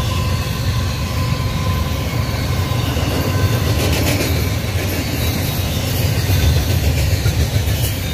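Double-stack intermodal container cars rolling past on the rails: a loud, steady low rumble of steel wheels on track with occasional faint clicks.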